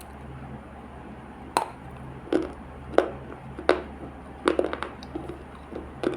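Dried multani mitti (fuller's earth) clay crunching as it is bitten: about seven sharp, crisp cracks at irregular intervals, over a steady low hum.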